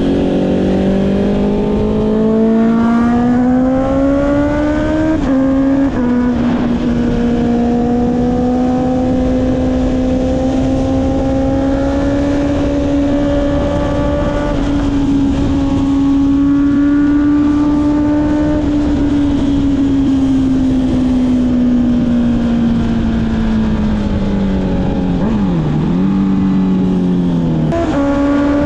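Honda CB650R inline-four with an Akrapovic exhaust, heard from the rider's seat over wind rush: the engine revs up for about five seconds, drops in pitch at a gear change, then holds a steady pitch under way. Near the end the revs sag and dip, then jump sharply up at another gear change.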